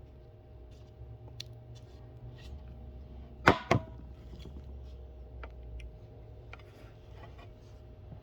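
Two sharp clicks about a quarter second apart, about three and a half seconds in, with scattered light ticks over a faint low hum.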